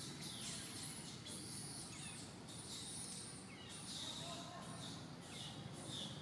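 Birds calling: a run of short, high chirps, several sliding down in pitch, repeating about every half second over faint outdoor background noise.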